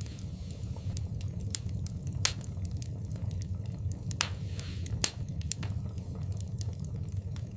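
Fire burning in a fireplace: a steady low rumble of flames with irregular crackles and sharp pops, three louder pops about two, four and five seconds in.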